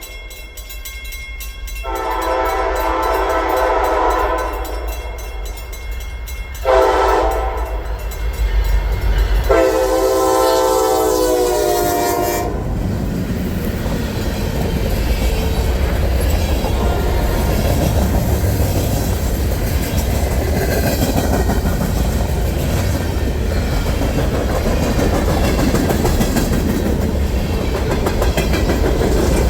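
Diesel freight train sounding its multi-chime air horn in three blasts, the last held longest, as it approaches with its locomotives rumbling. Then the train passes close by, its wheels clattering over the rail joints.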